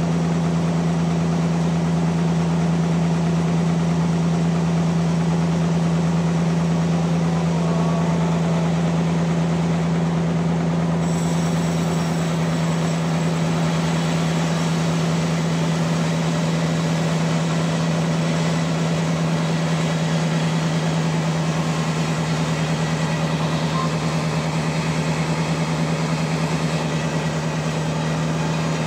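Sawmill running with a steady, constant low hum. About eleven seconds in, a brighter, hissier sound joins it and continues.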